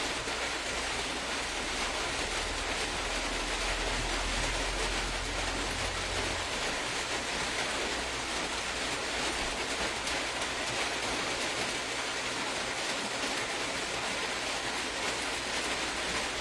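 Steady, even hiss of background noise like rain or a fan, with a low rumble swelling for a few seconds a little way in.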